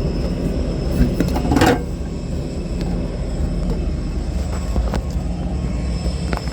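Airport ground vehicle's engine running with a steady low rumble while pushing another vehicle, with a few clicks and a short rattle about a second and a half in.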